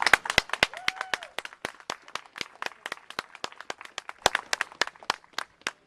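A rapid, irregular run of sharp clicks, several a second, fading to a few isolated clicks near the end.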